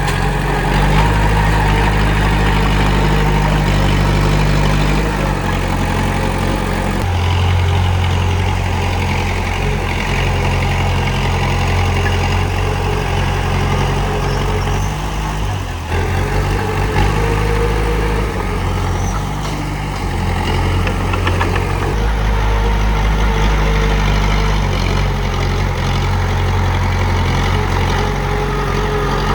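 Komatsu D31P bulldozer's diesel engine running steadily, its low note shifting in strength as the load changes, with a brief dip about sixteen seconds in.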